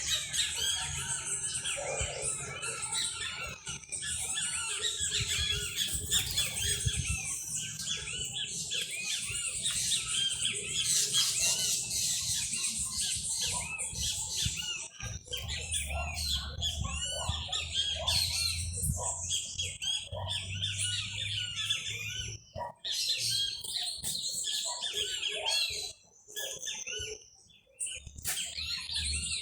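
Many small birds chirping and singing at once in a dense, overlapping chorus, with a low rumble coming and going underneath; the sound drops out briefly a few times near the end.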